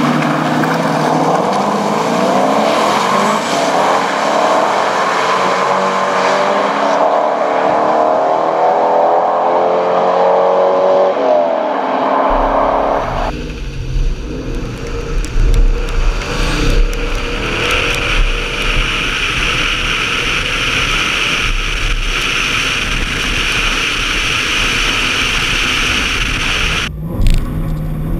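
Corvette Z06 V8 engines under hard acceleration, rising in pitch again and again as they run up through the gears. About halfway through the sound changes abruptly to a steady low rumble with a hiss over it.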